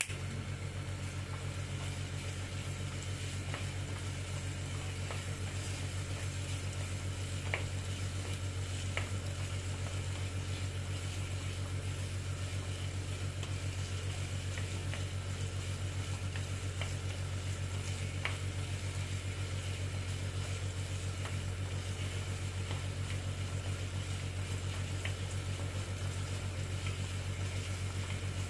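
Onion, tomato paste and spices frying in butter in a small pan, sizzling steadily as a wooden spoon stirs them, with a few light taps of the spoon against the pan. A steady low hum runs underneath.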